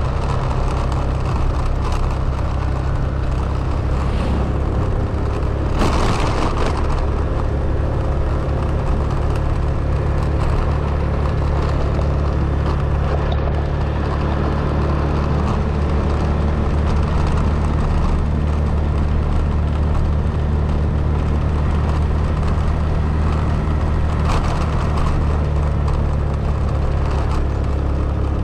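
A car driving: steady engine and road noise, a constant deep drone.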